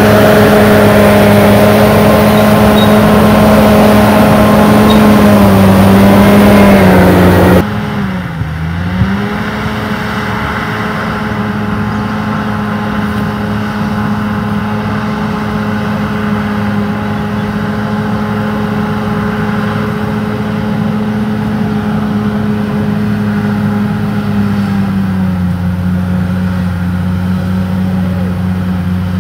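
Bulldozer's diesel engine running steadily. About seven seconds in, the sound drops abruptly in loudness and loses its hiss; the engine pitch then dips briefly and recovers, and it settles slightly lower near the end.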